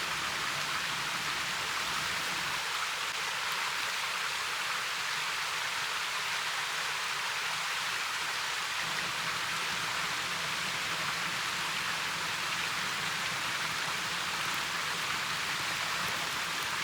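Steady, even hiss of water, with no separate splashes or drops standing out.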